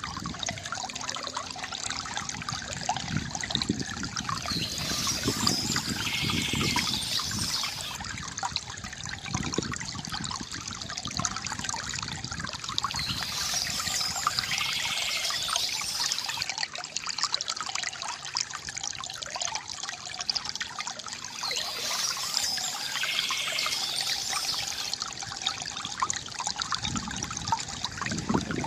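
Water from a bamboo fountain trickling and splashing steadily into a basin. Brighter high-pitched passages come back about every eight or nine seconds.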